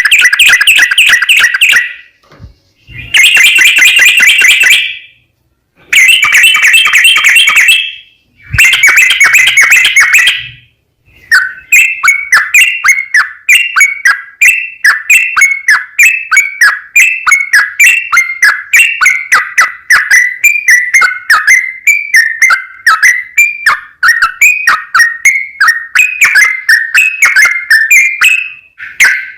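Yellow-vented bulbul (trucukan) singing loudly: four bursts of fast chattering song in the first ten seconds, then from about eleven seconds a long unbroken run of quick repeated bubbling notes, about three a second.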